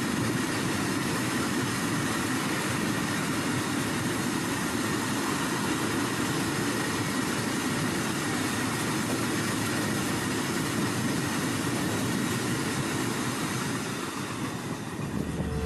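A long freight train running on the rails: a steady, continuous rumble of wagons with a thin high tone held throughout. It eases a little near the end.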